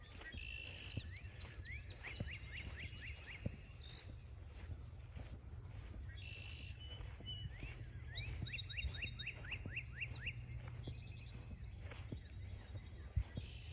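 A songbird singing repeated songs, each a short slurred phrase followed by a quick run of rising whistled notes; two full songs, with a third starting near the end. Steady footsteps on the trail tick underneath.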